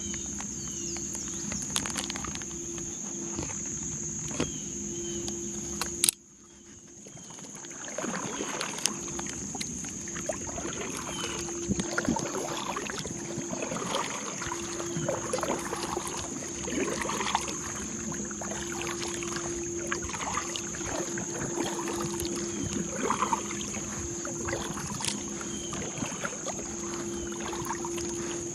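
Kayak paddle strokes splashing and dripping in the water, over a steady high-pitched whine. There is a sharp click about six seconds in, then the sound drops briefly and comes back.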